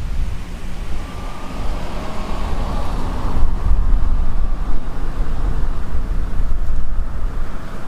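Wind buffeting the microphone with a heavy low rumble, over the faint whine of a jet aircraft's engines in the first half.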